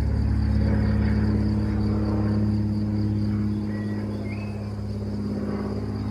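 A machine running steadily, a low drone made of several even tones, easing slightly in level about four seconds in. A bird chirps briefly near the middle.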